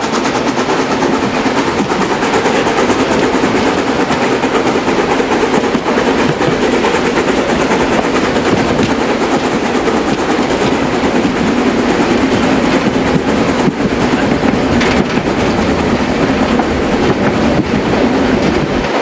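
Steam-hauled metre-gauge Harz narrow-gauge train running, heard from inside a carriage at an open window: a steady rumble of wheels and coaches with clickety-clack over the rail joints.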